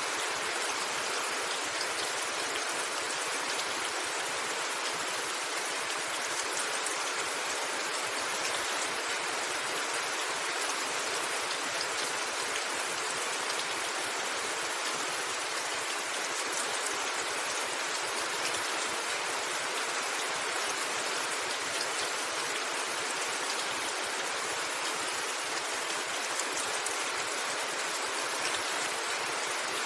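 Steady rain falling on a roof, an even hiss that neither swells nor breaks off.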